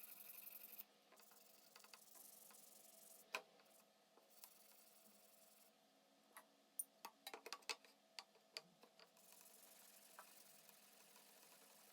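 Near silence broken by scattered sharp light clicks, one about three seconds in and a quick cluster of about a dozen between about six and nine seconds in, like small metal parts being handled.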